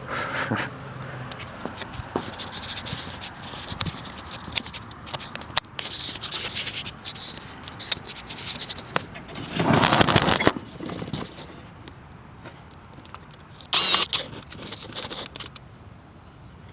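Minibike's small engine being cranked cold with its recoil pull-starter: scraping and clicking while it is readied, then two whirring pulls, a long one about ten seconds in and a short one about four seconds later. The engine does not catch and run.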